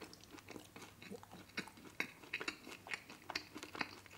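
Close-miked chewing of a mouthful of pepperoni pizza: soft, irregular mouth clicks and smacks.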